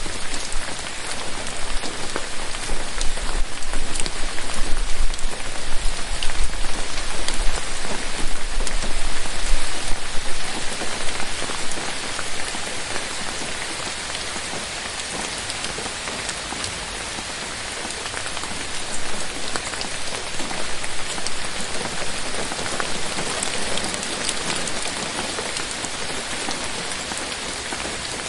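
Steady rain falling: a dense hiss of countless drops, with fine individual patters. It is heavier for the first ten seconds or so, then eases slightly and stays even.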